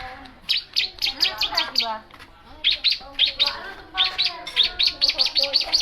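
Long-tailed shrike (cendet) singing: quick runs of sharp, high chirps broken by short pauses, with lower warbling notes mixed in.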